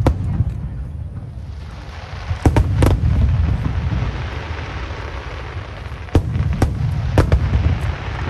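Aerial firework shells bursting with sharp booms in clusters: one at the start, two a few seconds in, then a quicker run of three or four near the end, with a low rumble between the bursts.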